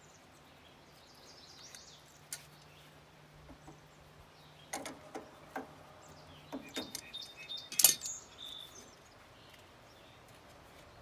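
Scattered metallic clicks and clinks of hand tools working on the excavator's panel screws, with the loudest clank about eight seconds in.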